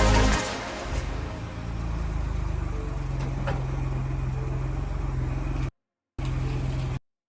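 A vehicle engine running with a steady low rumble. It cuts out briefly near the end, comes back, then stops abruptly.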